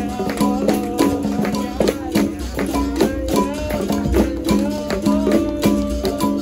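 Capoeira roda music: berimbaus sounding a few steady alternating notes with caxixi rattles shaking, over regular pandeiro strokes, and a voice singing a wavering melody.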